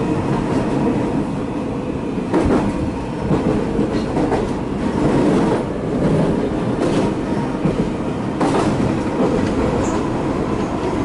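Kita-Osaka Kyuko electric commuter train running, heard from inside the front car: a steady rumble of wheels on rail, with a few clacks over rail joints.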